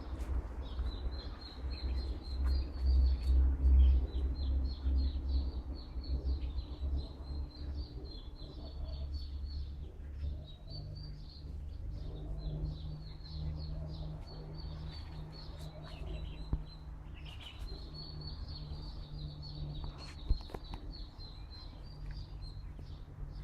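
A small songbird chirping in quick repeated phrases, with wind rumbling on the microphone, the gusts heaviest in the first several seconds.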